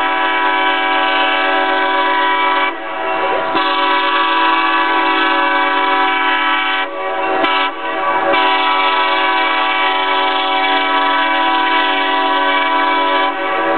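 Excursion train's multi-chime horn blowing as it approaches on the run-by, in four blasts: long, long, short, long. This is the standard grade-crossing signal.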